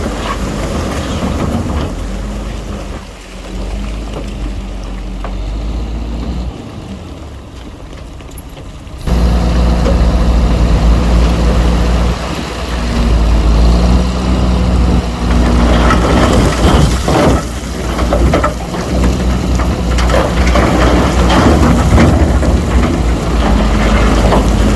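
Heavy diesel engine of construction machinery running steadily under load. It turns sharply louder about nine seconds in, with rough rattling later on.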